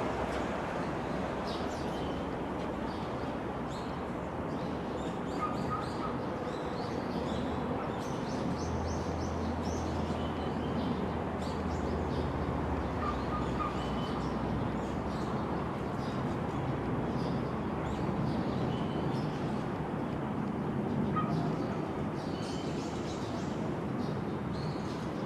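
Small birds chirping now and then over a steady outdoor background noise. A low steady hum comes in for several seconds around the middle.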